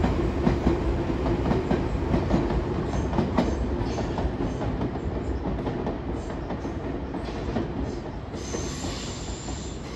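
Nankai electric commuter train running past on elevated track, its wheels clacking over the rail joints. The sound is loudest at first and slowly fades as the train draws away, and a high wheel squeal sounds briefly near the end as it takes the curve.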